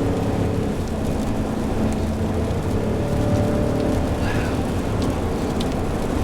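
Steady engine and road noise of a car driving at speed, heard from inside the cabin.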